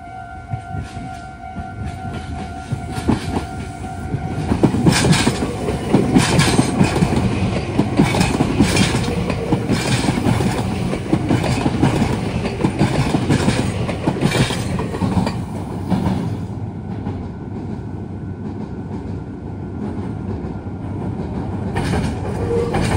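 Meitetsu electric train passing over the junction's points, wheels clacking rhythmically over the rail joints and turnouts. The sound grows loud about five seconds in, eases off after about sixteen seconds, and rises again near the end.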